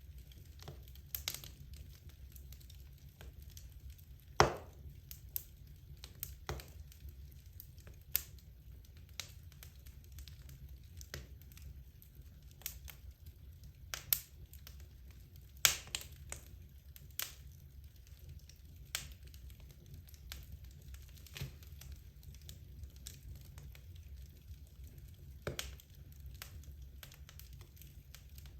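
Wood logs burning in a fireplace: irregular crackles and pops, the two loudest about four and fifteen seconds in, over a steady low rumble.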